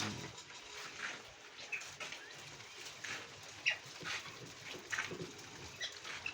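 A flock of caged laying quail calling, with short high chirps scattered every half second to a second and the sharpest one about midway.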